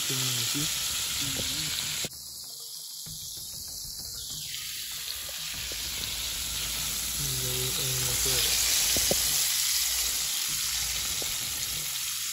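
Seasoned chicken pieces frying in hot oil in a frying pan: a steady sizzle and bubbling while the pieces are turned. The sizzle drops a little about two seconds in, then slowly swells again.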